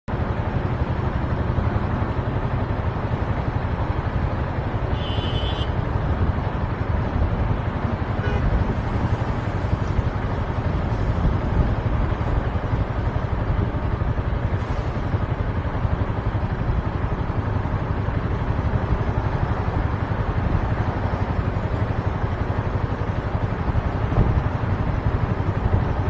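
Motorcycle on the move: a steady rush of engine and road noise, with a brief high-pitched sound about five seconds in.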